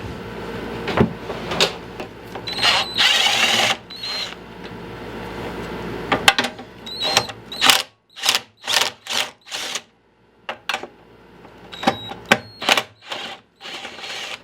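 A power drill or driver running in a short burst to back out bolts on a push mower's top cover, followed by a string of sharp clicks and knocks of metal parts being handled.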